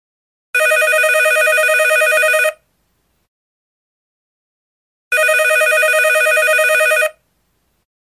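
Telephone bell ringing twice, each ring a rattling trill about two seconds long, with a silent pause of a little over two seconds between.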